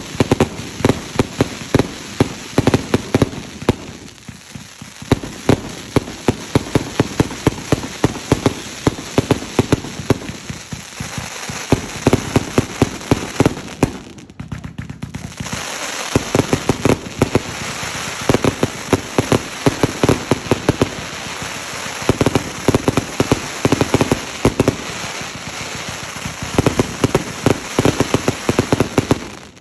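Fireworks going off in rapid succession: dense crackling with many sharp bangs, easing for a moment about halfway through before picking up again.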